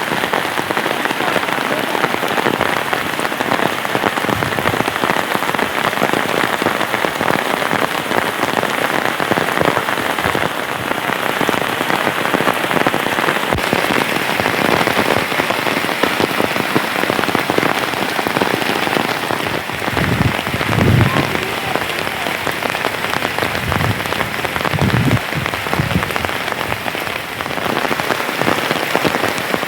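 Steady rain falling, a dense patter of drops, with two brief low sounds about two-thirds of the way through.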